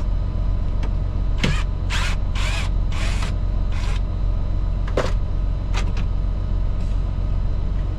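Sleeper-cab fittings creaking and scraping as they are worked loose by hand: a run of short creaks about half a second apart, then two more a little later, over a steady low hum.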